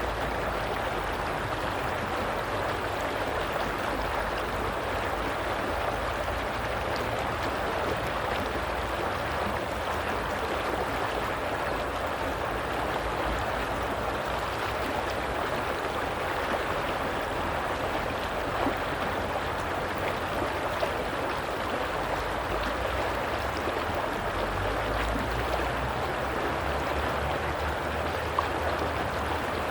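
Flowing stream water, a steady rush of running water with small splashes and gurgles.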